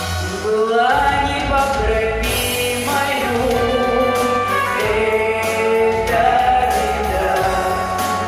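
Singing with musical accompaniment, held sung notes rising and falling in pitch over a steady backing.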